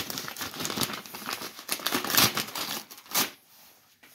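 Cardboard and paper crinkling and tearing as a countdown calendar door is pulled open, irregular rustles with sharper rips about two and three seconds in.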